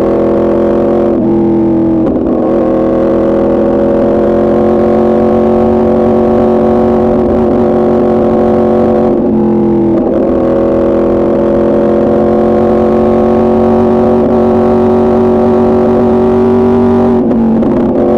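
2024 Yamaha R1's crossplane inline-four through an Arrow Pro Racing exhaust, pulling under acceleration with its pitch climbing slowly. It is broken by three quick upshifts, each a brief drop in pitch: about a second in, near the middle and near the end.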